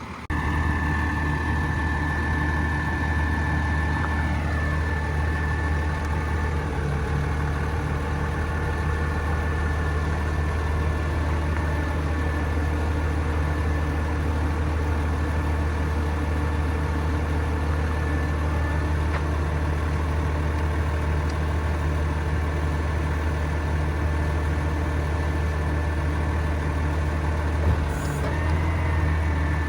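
Kenworth T370's PACCAR PX-8 diesel engine running at a steady idle, with a thin steady high whine over it.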